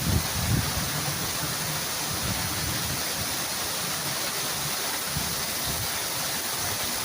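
Heavy thunderstorm rain pouring down in a steady, even hiss, with a few low thuds in the first second.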